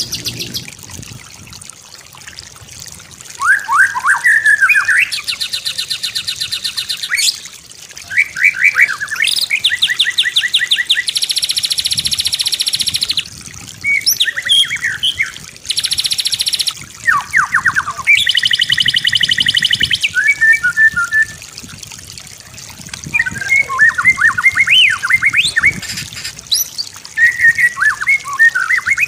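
White-rumped shama (murai batu) singing a varied full song. Phrases of whistled glides and chattering notes alternate with long, very fast rattling trills of evenly repeated notes, separated by short pauses.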